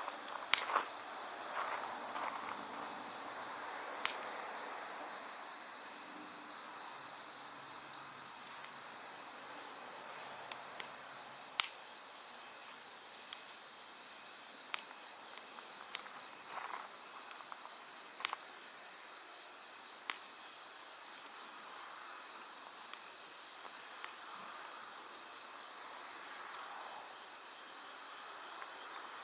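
Wood fire crackling, with a scattering of sharp pops, over steady insect chirping: a constant high trill with a pulsed chirp about once a second.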